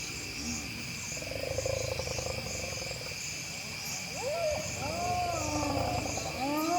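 Spotted hyenas calling in a mob: a buzzing growl about a second in, then from about four seconds a tumble of rising-and-falling yelps and whoops from several animals, over a steady chorus of crickets.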